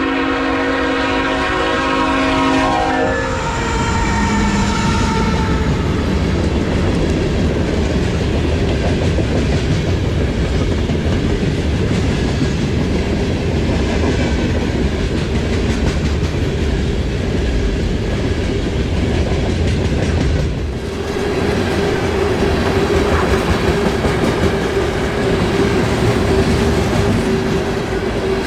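CN freight locomotive's horn sounding a chord that cuts off about three seconds in, then the steady rumble and clickety-clack of the manifest train's cars rolling past. A steady hum joins the rumble near the end.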